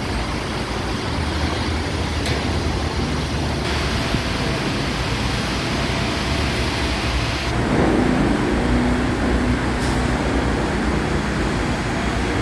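Truck on a highway in the rain: steady engine and road noise with the hiss of wet tyres. About seven and a half seconds in it gets a little louder, and a low engine hum comes through more clearly.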